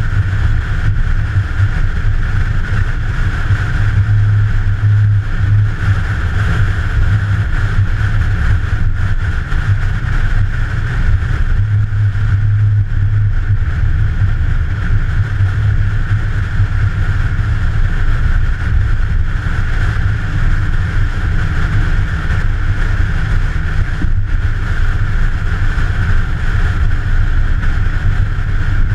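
A vehicle engine running steadily, a continuous low rumble with a hiss above it.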